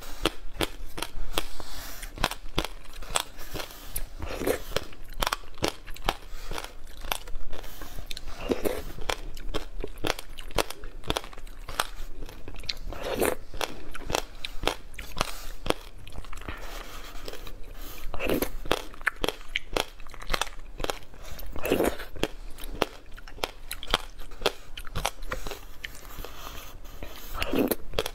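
Close-miked mouth sounds of someone eating passion fruit pulp: a steady crackle of the seeds being crunched and chewed, with a louder crunch every four to five seconds.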